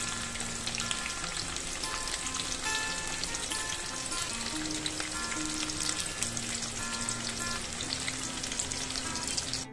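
Chicken skewers wrapped in shredded samosa sheets frying in hot oil, a steady dense sizzle with fine crackles, with soft background music.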